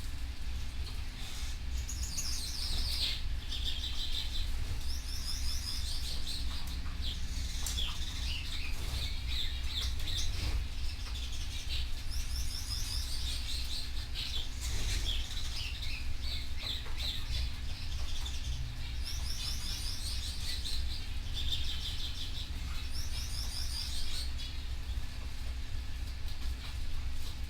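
Canary singing: phrase after phrase of rapid trills and chirps with short pauses between them, over a steady low hum.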